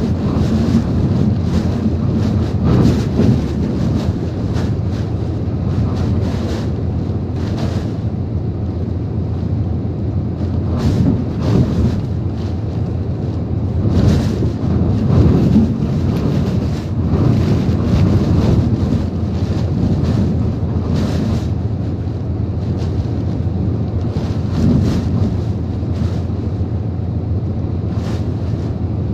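Typhoon-force wind with rain, gusts buffeting the microphone in a heavy low rumble that swells and eases every few seconds.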